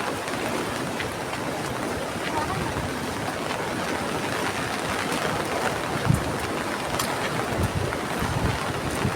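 Flood-swollen river rushing steadily, with wind buffeting the microphone in a few low thumps.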